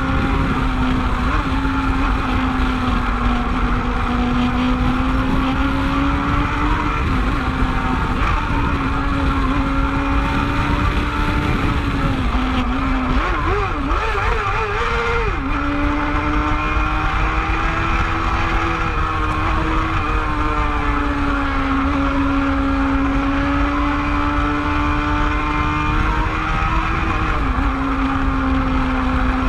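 Motorcycle engine running at a steady cruise, its note holding even apart from a brief dip and waver about halfway through, over continuous low wind and road rush.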